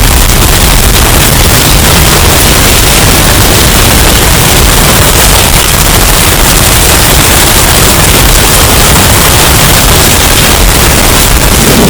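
Hurricane storm-wind sound effect, bass-boosted and overdriven into a steady, very loud, distorted rush of noise. Near the end, a deeper low rumble comes in.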